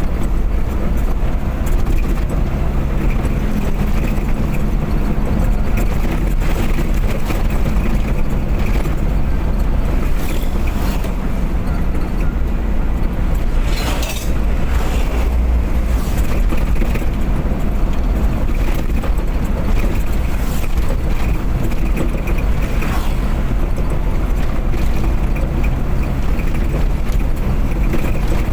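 Car being driven at speed, with a steady engine hum over a low road rumble; the engine note shifts a few times. A brief sharp hiss comes about halfway through.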